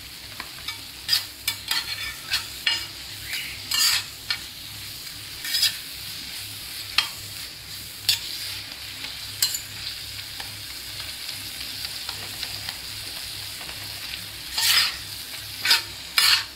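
Masala sizzling steadily in oil and butter on a hot tawa while a spatula stirs and scrapes it, with irregular sharp scrapes and clacks against the pan; the strokes thin out around the middle and pick up again near the end.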